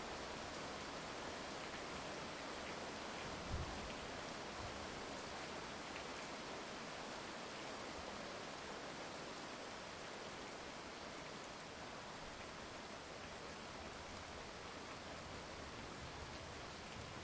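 Steady heavy rain, an even hiss of drops falling on surfaces. There is a single short low thump about three and a half seconds in.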